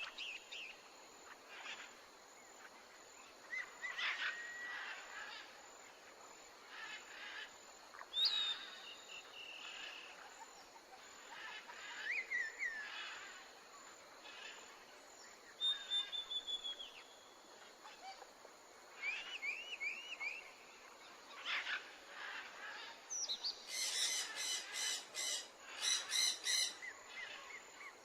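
Several wild birds chirping and whistling in short separate calls over a faint, steady rush of water. Near the end a bird gives a run of loud, harsh squawking calls.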